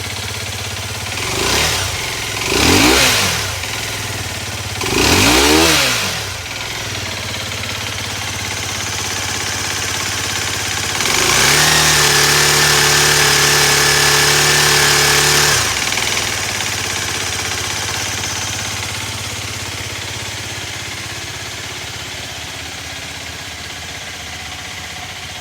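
Aprilia RX125 motorcycle engine idling, blipped three times in quick succession, then held at higher revs for about four seconds before dropping back to idle.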